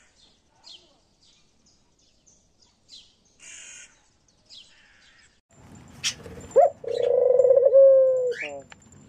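Crows cawing several times, short and faint. Past the halfway point a louder held tone with a few sharp clicks takes over and dips at the end.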